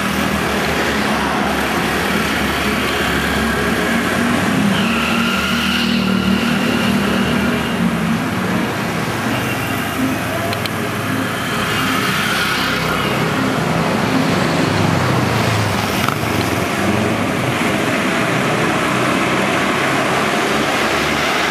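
Moto chiva (motorcycle-powered tourist cart) underway: its motorcycle engine running, the pitch shifting now and then with speed, over steady wind and road noise.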